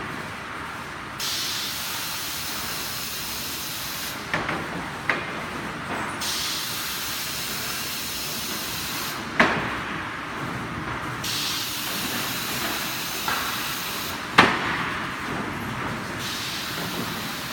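Automatic loader for a plywood sanding line running through its cycle about every five seconds: a steady hiss that cuts out for about two seconds each cycle, with sharp knocks as each cut-out begins, the loudest about fourteen seconds in.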